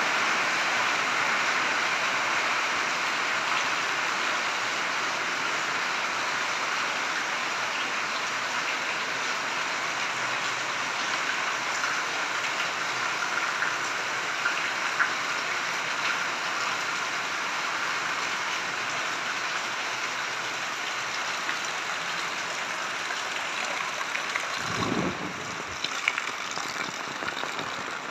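Heavy rain falling steadily, an even dense hiss that eases slightly over time. About three seconds before the end there is a brief low rumble, then a few sharp clicks.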